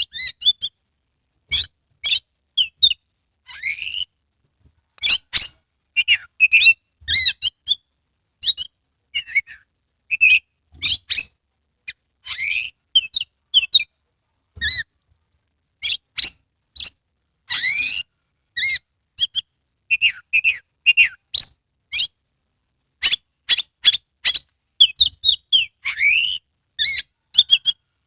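Oriental magpie-robin (kacer) singing a loud, fast, varied song of short whistles, sharp chips, sliding notes and harsh squawky phrases, with only brief pauses between phrases.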